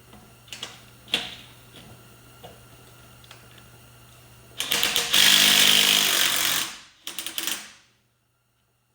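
Impact wrench hammering on a bolt for about two seconds, then two short bursts, after a few metal clinks of tools and socket.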